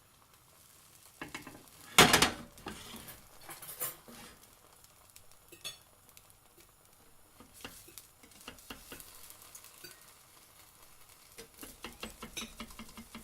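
A pancake cooking in a frying pan: a loud sudden burst about two seconds in that fades over half a second, then quiet crackling and scattered clicks of utensils against the pan, growing busier near the end.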